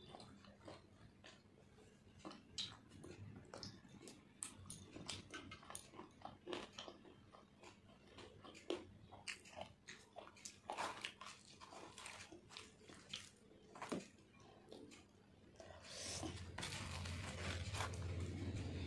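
Close-miked mouth sounds of someone chewing: soft wet clicks and smacks, a few at a time. Near the end comes a louder, steady crackling rustle as a puffed, deep-fried luchi is torn apart by hand.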